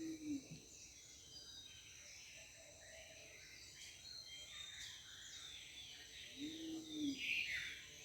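Rainforest birds chirping and calling over a steady high insect drone, with a low cooing call twice: once at the start and again about six and a half seconds in.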